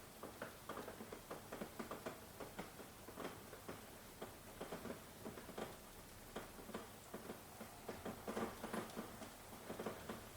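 Rain pattering: irregular drops tapping on a surface, several a second, over a faint steady hiss.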